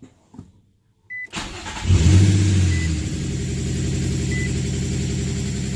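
Infiniti G35's VQ35DE V6 cranking and starting about a second and a half in, flaring briefly, then settling into a steady, really high cold idle. A short electronic warning chime beeps every second and a half or so throughout.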